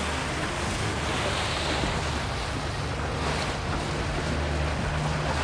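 Wind buffeting the microphone and water rushing past a moving boat, over the steady low drone of the boat's engine.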